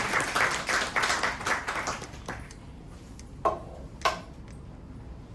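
Applause of hand claps that dies away about two seconds in, followed by two single sharp claps a little later, then room tone.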